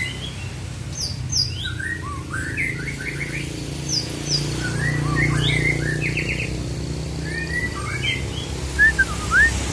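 White-rumped shama (murai batu) singing a varied run of short whistles, up- and down-sweeping notes and quick trills, with thin high notes above. Two loud whistled notes come near the end, over a steady low hum.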